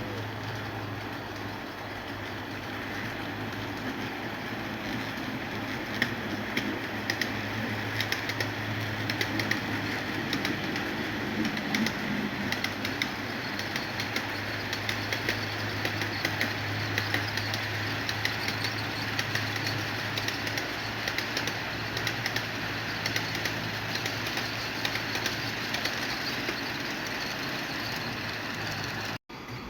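HO-scale model train running on the layout: a steady electric motor hum with a busy, uneven clicking of wheels on the track.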